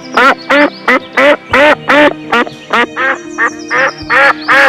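Duck quacking in a rapid run of loud quacks, about three a second, over background music.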